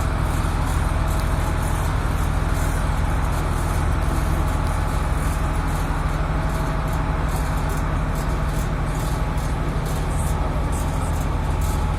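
River passenger boat's diesel engine droning steadily, a constant low hum with an even hiss over it.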